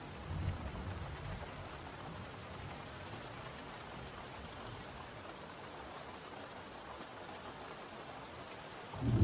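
Steady rain falling, with a low thunder rumble dying away in the first second or so and a sudden loud roll of thunder breaking near the end.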